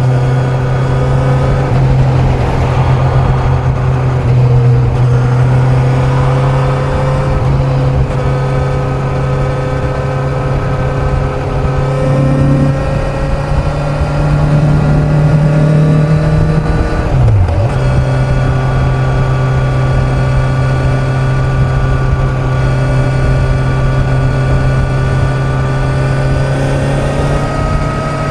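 Kawasaki Z900 inline-four engine running steadily at highway cruising speed, with wind and road noise over it. About two-thirds of the way through the engine note dips briefly and comes straight back, as when the throttle is rolled off for a moment.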